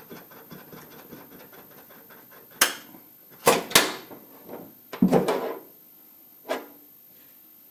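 Handling noise of tools and parts in a workshop: a few sharp knocks and clatters, with a longer rattling clatter about five seconds in, over faint scraping.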